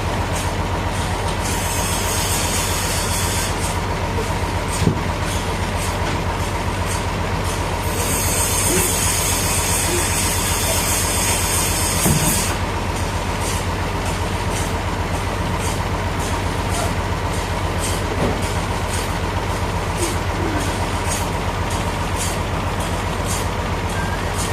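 Sawmill machinery running steadily: a low engine hum with rapid, even clicking, and two stretches of high hissing, one shortly after the start and a longer one around the middle.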